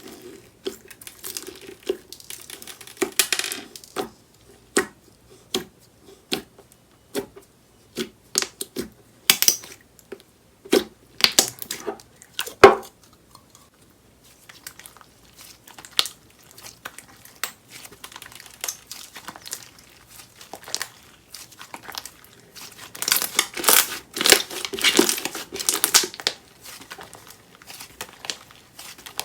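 Jelly foam slime being squeezed, stretched and pressed by hand, making sticky popping and crackling clicks in irregular bursts. The crackling is densest for a few seconds near the end.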